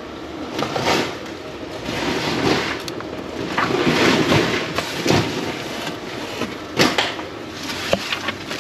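Rustling and handling of discarded bags and packaging while rummaging through a dumpster, in uneven swells with a few sharp knocks, the sharpest about seven seconds in.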